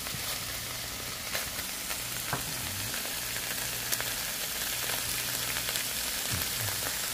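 Tuna choka sizzling steadily as it sautés in butter or oil in a frying pan. A few light clicks are heard along the way.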